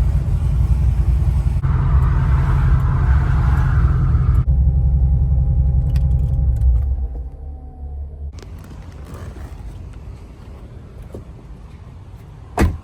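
The 2009 Corvette ZR1's supercharged 6.2-litre V8 running with a deep, low rumble. About seven seconds in it drops away to a much quieter background. Near the end comes a single sharp knock.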